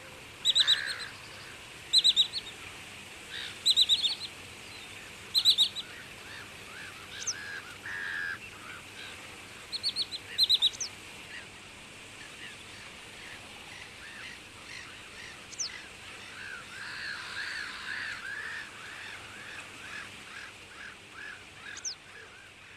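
Birds calling: loud, short high-pitched calls, often in pairs, repeated about every one and a half seconds for the first ten seconds or so, then a quick run of softer rising-and-falling notes lower in pitch near the end.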